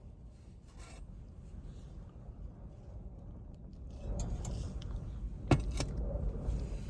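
Strong wind buffeting the microphone with a low, gusting rumble, growing rougher about four seconds in, with two sharp knocks a moment apart near the end.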